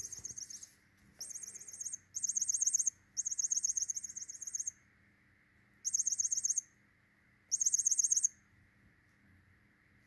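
A small bird chirping: a rapid, very high-pitched trill repeated in six short bursts of about a second each.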